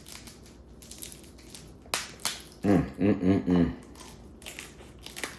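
Sharp cracks and clicks of crab shell being handled and broken: one sharp crack about two seconds in and several lighter clicks near the end, with a brief murmur of voice in between.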